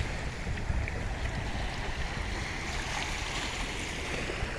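Sea waves washing in, a steady rush that swells about halfway through, with a low rumble of wind on the microphone.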